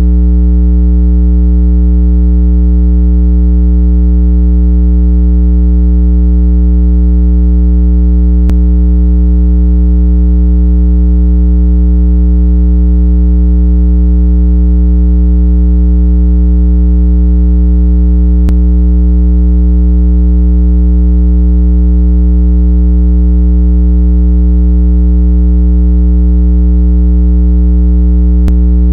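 Continuous, unchanging low-pitched electronic tone with a stack of overtones. It is a water-eject tone, played loud so the speaker vibrates and shakes out trapped water.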